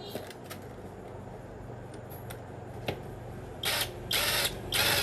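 Mechanic's tools at work on a tractor: a few light clicks, then three short, loud noisy bursts near the end, over a low steady hum.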